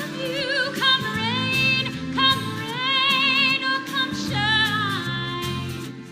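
A woman singing a slow ballad in a full, belted musical-theatre voice, holding notes with a wide vibrato and sliding between pitches, over live instrumental accompaniment.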